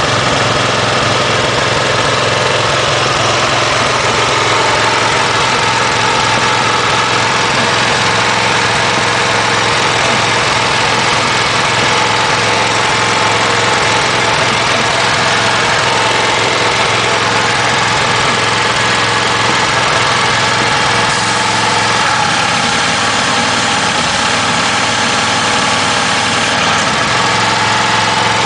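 Engine of an engine-driven high-pressure washer running steadily at an even speed, in working order.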